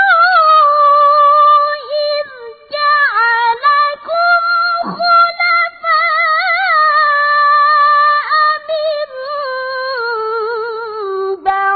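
A young qari's high voice reciting the Quran in melodic tilawah style, holding long ornamented notes with quavering turns that sink slowly lower toward the end, broken by a quick breath about a third of the way in and another near the end.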